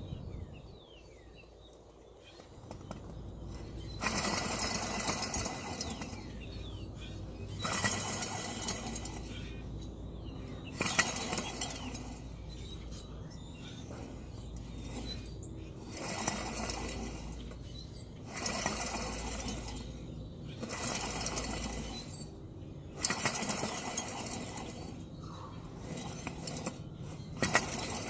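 Repeated bursts of metallic grinding and scraping, each about a second long and about eight in all, with a few sharp clinks between them.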